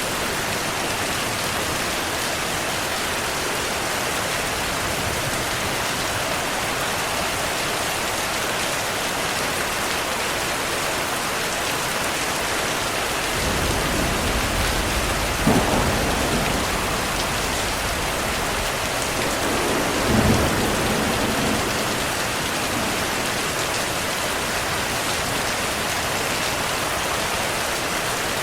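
Heavy rain falling steadily, with a roll of thunder rumbling up about halfway through, two sharper cracks within it, then fading back under the rain.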